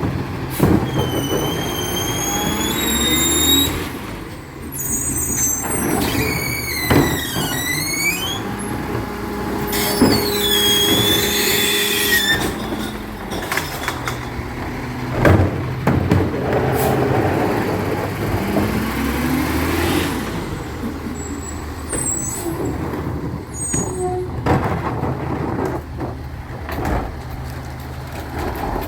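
Recycling truck running, with a series of high-pitched wavering squeals over its first dozen seconds and scattered knocks and clanks.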